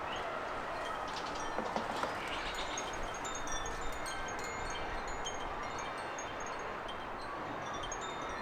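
Garden ambience: many short, high ringing notes, chirps or chime-like tinkles, scattered over a steady background hiss.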